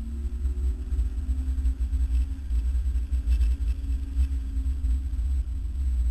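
Car engine running under load at fairly steady revs, heard from inside the cabin, under a heavy deep rumble of road and wind noise. The engine note rises slightly about a second in, then holds.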